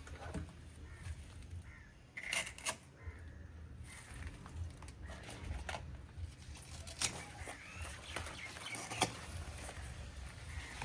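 Birds calling, with a burst of calls a little after two seconds and a few short sharp knocks later on.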